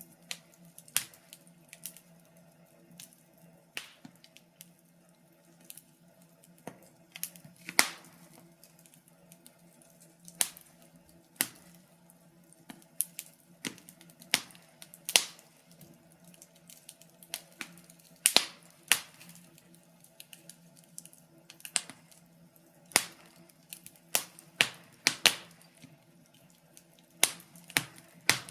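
Wood fire crackling: sharp, irregular pops and snaps, a few each second at the busiest, over a faint low hum.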